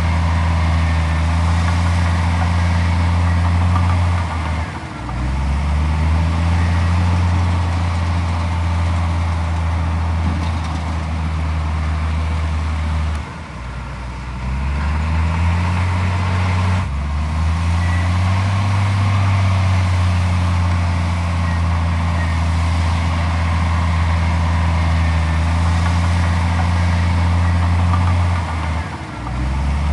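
Heavy diesel engine running under load at a steady high speed. Three times it dips, about five seconds in, for a few seconds in the middle, and near the end, and each time its pitch climbs back up.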